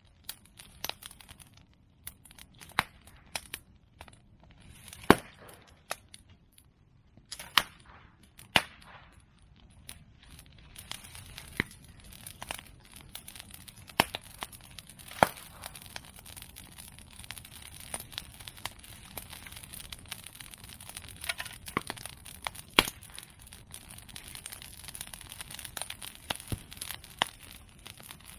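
Bonfire of cut medake bamboo and chestnut prunings crackling, with sharp pops and a few much louder cracks as the hollow bamboo bursts in the heat. About a third of the way in, the crackle thickens into a denser, steadier crackle as the fire takes hold.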